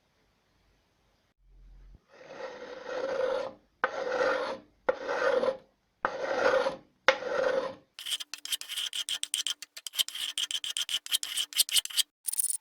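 Hand rasp scraping across wood. Five long, even strokes are followed, about eight seconds in, by a run of quicker, shorter strokes.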